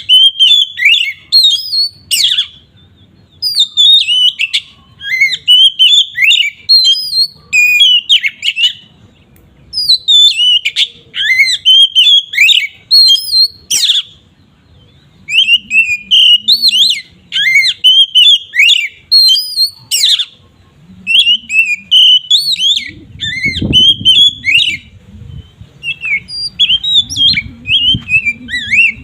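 Oriental magpie-robin (kacer) singing a loud, varied song of quick whistled and chattering notes in bursts a few seconds long, separated by brief pauses. A low rumble comes in about twenty-three seconds in.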